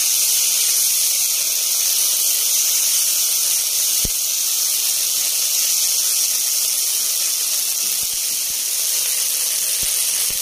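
Chicken keema with onion and Schezwan sauce sizzling steadily in a stainless steel pan as it is stirred, with a few light knocks of the spatula against the pan.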